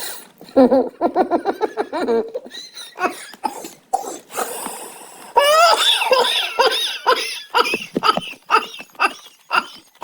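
A man in a coughing fit mixed with laughter, in repeated bursts with a breathy pause midway. It is a smoker's cough, just after smoking a joint.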